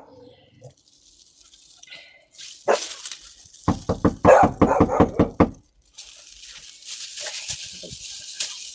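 Dog barking, heard through a video doorbell's microphone: a single bark about three seconds in, then a quick run of about ten barks, followed by a steady hiss.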